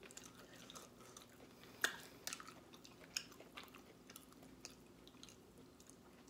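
A person chewing and eating curry goat with her fingers: faint chewing with scattered short wet clicks and smacks, the sharpest nearly two seconds in.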